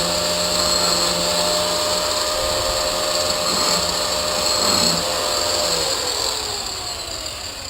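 Angle grinder with a grinding wheel running at a steady whine while lightly deburring the edges of a mild steel bar. About six seconds in it is switched off and the motor winds down, its pitch falling.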